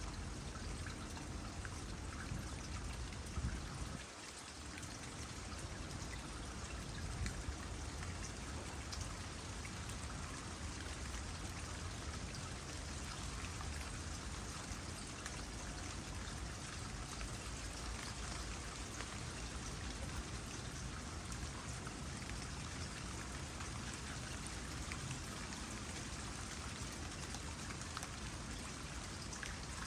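Water trickling into a small pond, with light rain pattering on the water as a steady hiss full of fine drop ticks.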